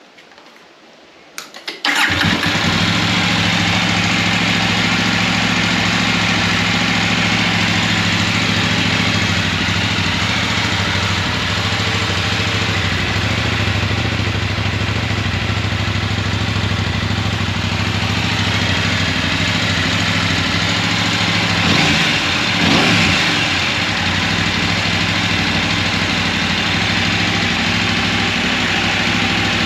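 KTM Adventure motorcycle with a newly fitted Wings aftermarket exhaust, its dB killer in place, cranked and started about a second and a half in. It then idles steadily, with one short rise and fall in engine speed about 22 seconds in.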